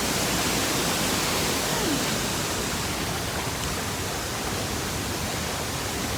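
A waterfall's falling water rushing steadily, an even, unbroken hiss with no change in level.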